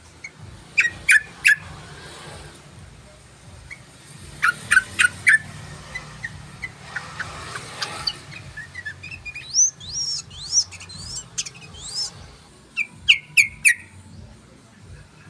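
Yellow-vented bulbul (trucukan) song: quick clusters of three or four sharp chirps, and about two-thirds through a run of short rising whistled notes, then another quick cluster of chirps.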